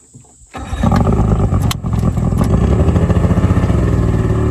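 Outboard jet boat motor running loudly and steadily, coming in suddenly about half a second in.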